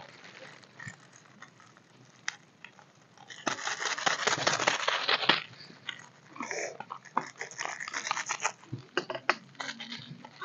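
People eating food, chewing and crunching close to the microphone. A dense stretch of crunching comes a few seconds in, followed by scattered sharp clicks.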